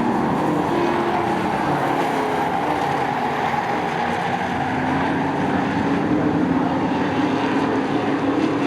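Racing trucks' engines running as the field laps the short oval track, a continuous, steady din whose engine pitch sags and then climbs slowly over several seconds.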